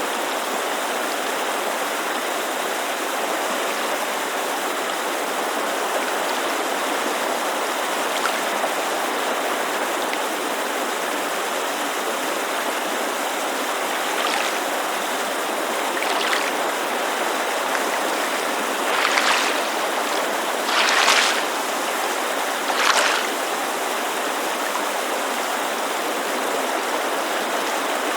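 Steady rushing white noise of a mountain creek, with a few soft splashes of water lapping against a lakeshore in the second half, the last three the loudest.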